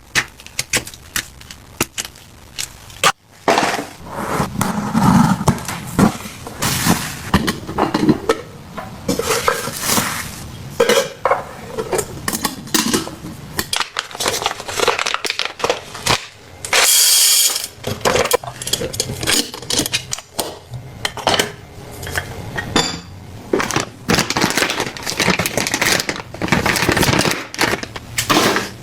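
Clinks, clatter and knocks of containers and kitchen items being handled and set down one after another, with a brief hiss about two-thirds of the way through.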